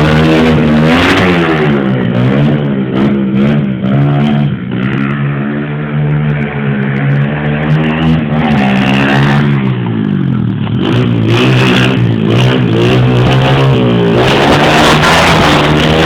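125 cc dirt bike engine revving under riding, its pitch climbing and dropping several times as it accelerates and eases off, with a deep dip about ten seconds in.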